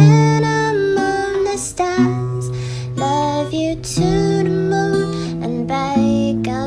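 Acoustic guitar playing the song's chords, with the chord changing about every two seconds.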